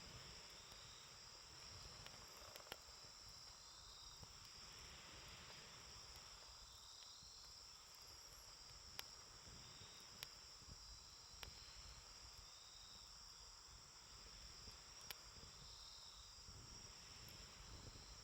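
Faint wood campfire crackling, with a few sharp single pops several seconds apart, over a steady high trilling of insects.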